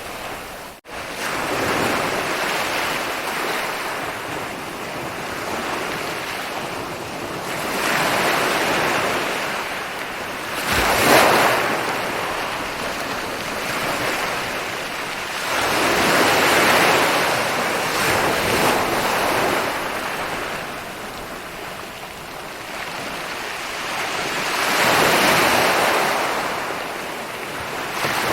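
Ocean waves rolling in and breaking on a beach, the rushing surf swelling and fading in slow surges every several seconds, one sharper break about eleven seconds in. The sound cuts out briefly about a second in.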